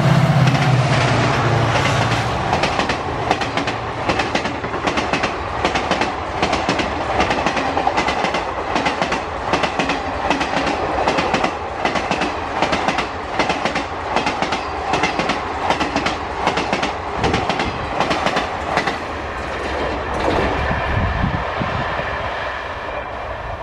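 Indian Railways diesel locomotive passing at speed, its engine loud for the first second or two, then a long rake of passenger coaches going by with a steady clickety-clack of wheels over rail joints, about two clacks a second. The clacking fades near the end as the train recedes.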